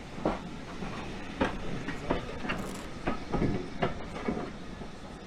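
Swanage Railway steam train's carriages running, a steady low rumble with irregular knocks and rattles.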